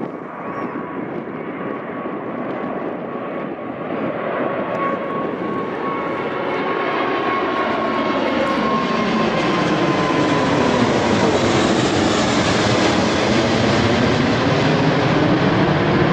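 Jet airliner's engines growing steadily louder as the plane draws near and passes, a high whine that slowly drops in pitch over rising engine noise with a sweeping, phasing quality midway.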